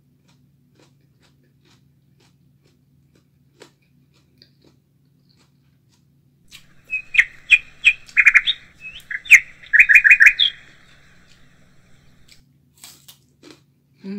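Bird chirping: two quick runs of short, high chirps over about four seconds, starting about six and a half seconds in.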